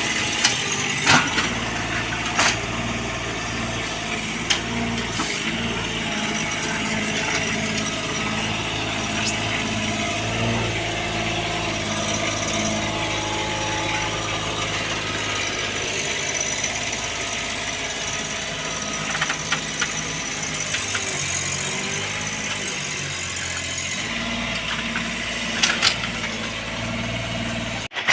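Bobcat 322 mini excavator's diesel engine running steadily while working, with a few sharp knocks and clanks scattered through.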